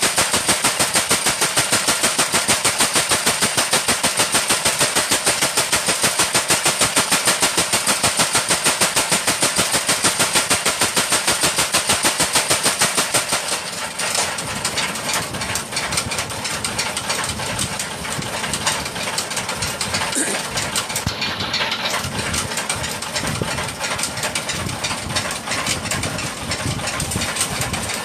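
Forge power hammer pounding in a fast, even rhythm of about five blows a second, stopping about halfway through. An engine keeps running after it, with irregular knocks.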